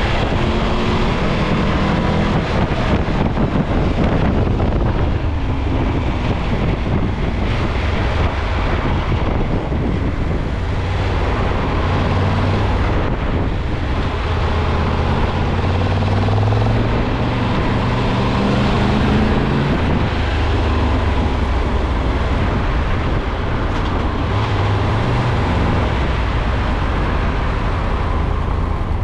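A car driving: steady road noise, with the engine's low hum rising and falling in pitch.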